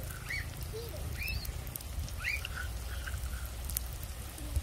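Birds chirping: a few short, rising calls over a steady low background rumble.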